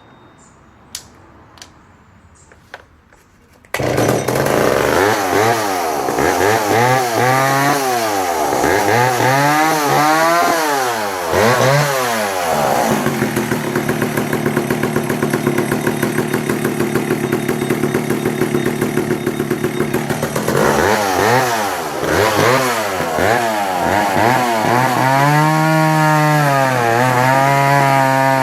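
Danarm 55 Mk3 54cc two-stroke chainsaw starting about four seconds in. It revs up and down repeatedly, runs at a steady pitch for several seconds in the middle, then revs up and down again.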